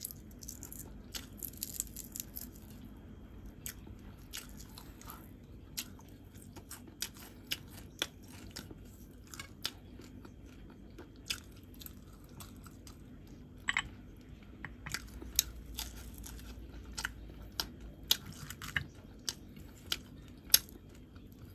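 A person chewing boiled saba banana: soft, irregular mouth clicks and smacks, coming more often and sharper in the second half.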